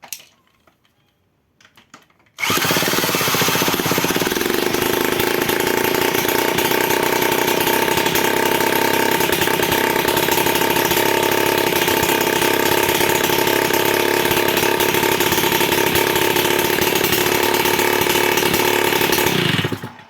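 A power tool starts abruptly and runs steadily at constant speed for about seventeen seconds, then winds down near the end. A few light clicks come just before it starts.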